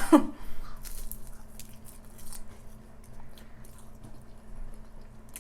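A person chewing and biting food close to the microphone, with a few short soft crunches in the first two seconds or so.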